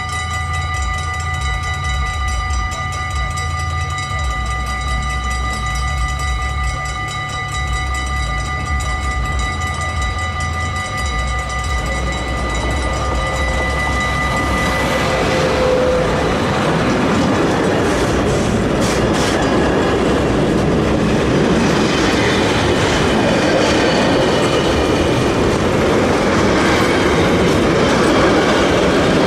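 Level-crossing warning ringing steadily as an intermodal freight train approaches. About 14 seconds in, a Railion electric locomotive passes close by, then container wagons rush past with a loud clatter over the rails.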